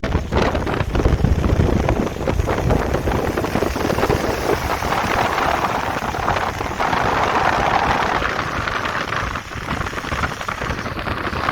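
Heavy rain and the wet-road hiss of a vehicle driving on an expressway, over a low rumble. A louder hiss swells up in the middle and fades about eight seconds in.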